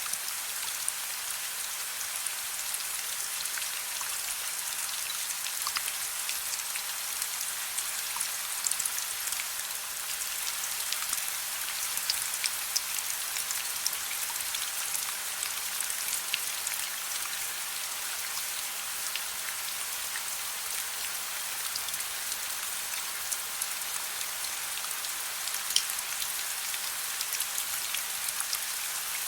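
Steady gentle rain: an even hiss of rainfall with many small drops pattering on a surface. A faint steady low hum sits underneath.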